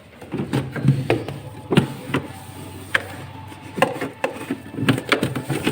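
Irregular knocks, clicks and rubbing as the inside of a refrigerator is wiped down with a wet cloth.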